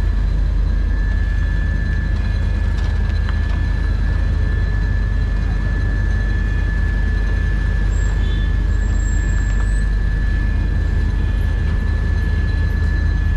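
Heavy diesel road-paving machinery running steadily: a deep, even engine hum with a constant high-pitched whine over it.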